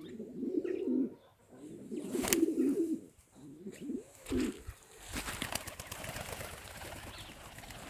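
Van pigeons cooing: three or four low, rolling coos in the first half, with a single sharp click in between. From about five seconds in, a steady crackling, rustling noise takes over.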